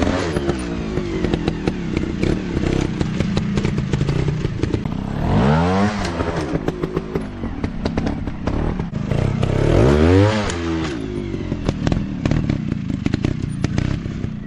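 Dirt bike engine running and revving up and back down three times, with many sharp clattering knocks along the way.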